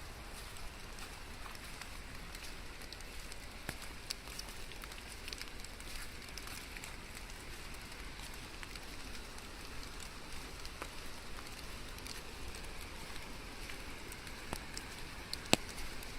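Steady rain falling, with many scattered individual drops tapping close by and one sharper tap near the end.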